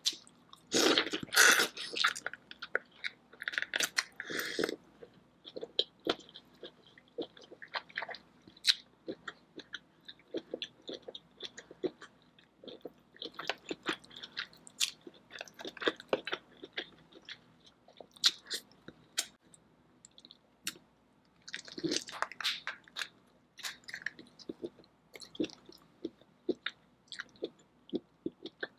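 Close-miked ASMR eating of a Cajun-sauced seafood boil: wet chewing, smacking and biting into lobster tail meat, with many short clicks and crackles. A loud spell of biting about a second in, and another about two-thirds through.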